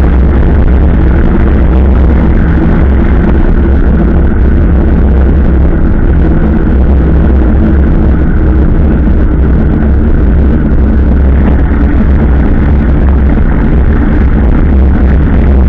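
Motorcycle engine running at a steady speed while riding, a loud, even drone with no change in pitch.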